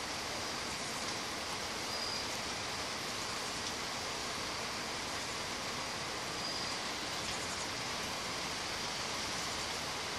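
Heavy rain pouring down: a steady, even hiss of rainfall.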